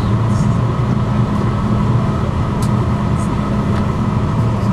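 Steady engine hum and road rumble inside a moving tour coach.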